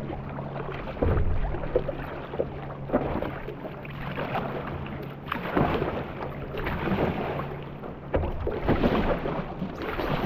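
Wind rumbling on the microphone over water sloshing around a small paddle boat, with scattered knocks.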